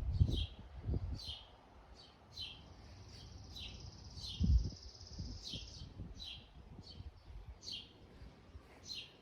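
Songbirds calling outdoors: a string of short, high chirps that fall in pitch, about one or two a second, with a steady high trill in the middle of the stretch. A few dull low thumps sound in between, the loudest right at the start and about four and a half seconds in.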